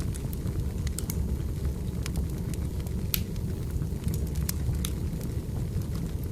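Wood fire burning, a steady low rumble with irregular sharp crackles and pops from the burning logs, one louder pop about three seconds in.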